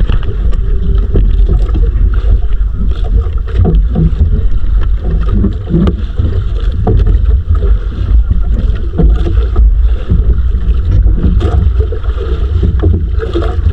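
Loud, buffeting low rumble of wind on the microphone aboard a small fishing boat at sea, with scattered knocks and splashy noise.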